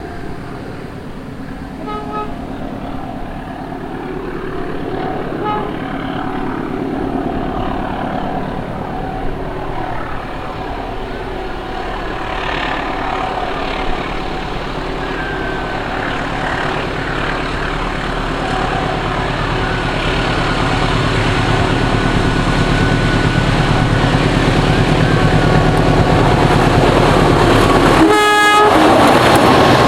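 An approaching train, its rumble growing steadily louder, then a locomotive horn blast about two seconds before the end: the Semboyan 35 horn signal that Indonesian trains give when nearing a station.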